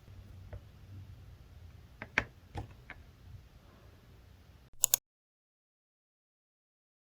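A few light clicks and taps, then two sharp, bright clicks just before five seconds in, after which the sound cuts to dead silence.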